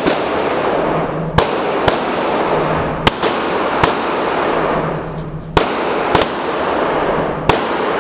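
Handgun shots at a shooting range: about eight sharp reports at uneven gaps of one to two seconds, some louder and some fainter, over a steady background hiss.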